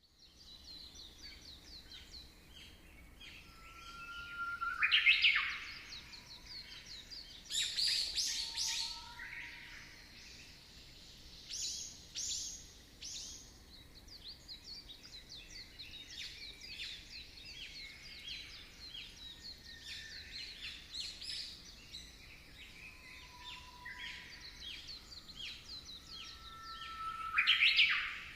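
Birds chirping and singing, many short high calls overlapping, with louder calls about five seconds in, around eight seconds and again near the end; two of these open with a held whistle that sweeps sharply up.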